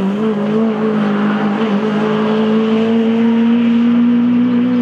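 Honda Civic Type R rally car's four-cylinder engine held at high revs as the car accelerates out of a corner. Its note is steady and loud, and its pitch rises slowly as the car pulls away.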